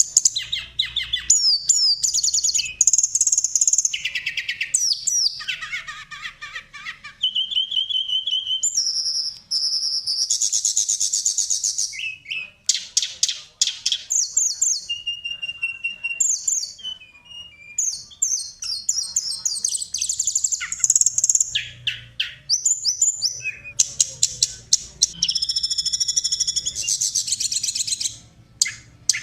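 Songbird song in a continuous run of rapid high chirps, fast trills and short whistles, changing phrase every second or two. It is masteran tutor audio, made to set caged songbirds singing.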